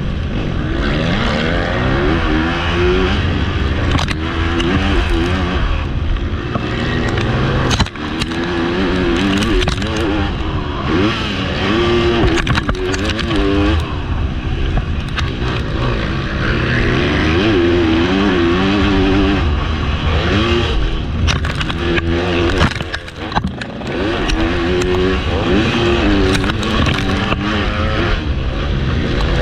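Motocross bike engine revving hard and backing off again and again through a race lap, under heavy wind rush on a helmet-mounted camera. The throttle is shut briefly twice, about eight seconds in and again a little after twenty-two seconds.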